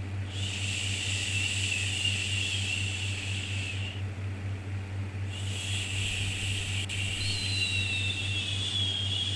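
Long shushing "shhh" sounds, one lasting nearly four seconds, then a short gap and another starting about five seconds in, over a steady low hum.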